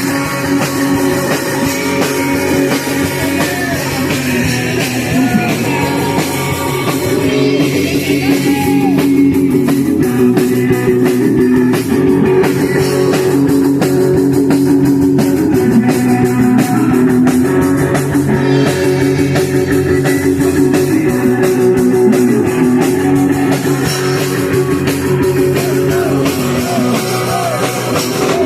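Live punk rock band playing loud and fast: distorted electric guitars, bass and a drum kit, heard as an amateur live recording.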